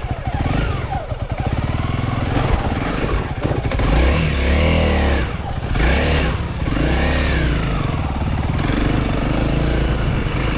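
Honda CRF300L dirt bike's single-cylinder four-stroke engine revving up and falling back in repeated surges, about five times, as it is ridden through a hard trail section.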